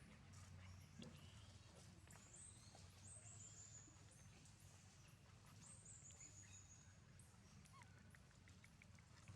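Faint high-pitched chirping calls, each a quick run of notes falling in pitch, heard three times over a low steady hum and a few soft clicks.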